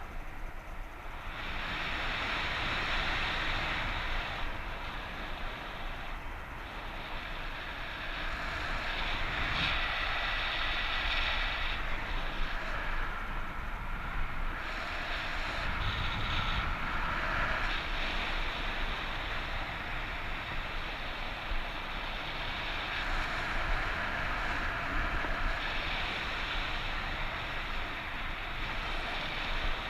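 Strong wind rushing over the microphone of a paraglider pilot in flight, a steady noise that swells and eases every few seconds.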